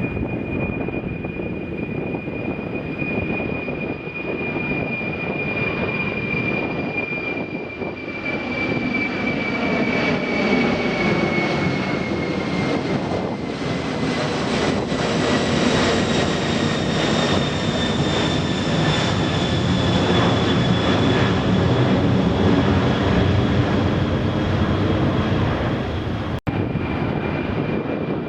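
Jet airliner's engines roaring at takeoff power as it passes, with a high fan whine that slowly falls in pitch; the roar builds about a third of the way in and is loudest in the middle. The sound cuts out for an instant near the end.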